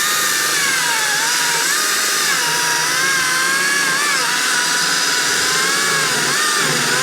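Chainsaw running at full throttle through a test cut, its engine pitch wavering and dipping under load. The chain has just been resharpened with an Oregon PowerSharp and cuts acceptably, though not like a new chain.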